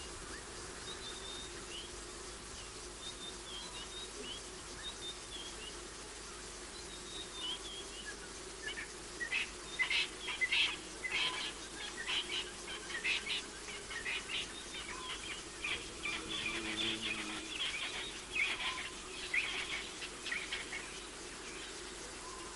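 Birds chirping and calling. A few short whistled glides come first, then a busy run of quick, high chirps from about eight seconds in until near the end, over a steady low hum.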